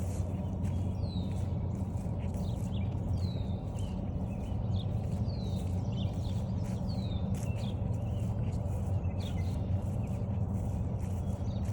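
Footsteps on a forest trail, steady and regular, while a bird repeats a short falling whistled note about once a second.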